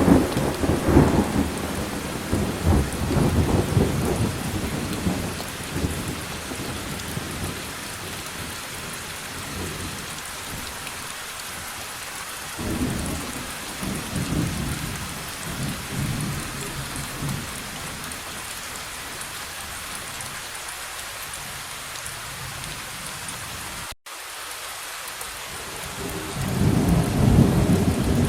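Steady rain falling with rolling thunder: a rumble fading over the first few seconds, another about halfway through, and a third swelling up near the end. The sound cuts out for an instant about 24 seconds in.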